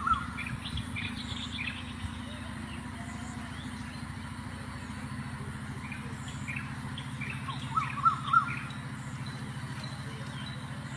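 A small bird chirping in quick clusters of short, sharp notes, once near the start and again about eight seconds in, over a steady low hum.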